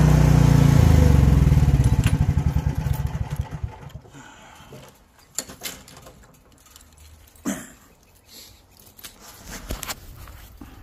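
Chinese mini excavator's carbureted petrol engine running steadily, then shut off: it winds down over about two seconds, its firing slowing to separate putts, and stops about four seconds in. A few sharp clicks follow.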